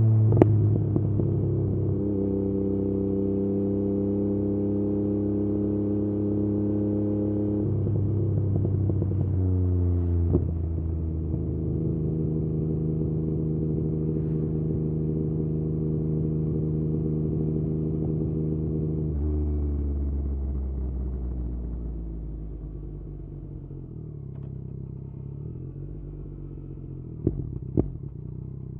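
Yamaha MT-09's inline three-cylinder engine through an Akrapovič exhaust, held at steady revs while riding, with a dip in engine speed about ten seconds in. After about nineteen seconds the revs fall away to a lower, quieter steady run, with a couple of sharp clicks near the end.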